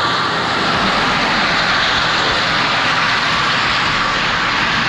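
Steady, loud rush of wind and road noise on a moving bicycle.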